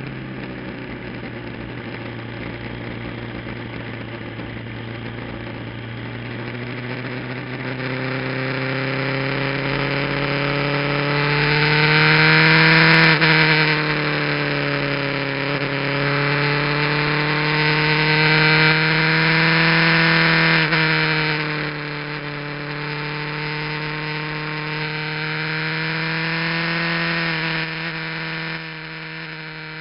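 Kawasaki GPZ900R's inline-four engine, fitted with an aftermarket muffler, heard onboard through a cheap action camera with wind rush, its pitch climbing and falling as the bike accelerates and shifts. It is loudest about twelve seconds in, and the throttle closes sharply about twenty-one seconds in and again near the end.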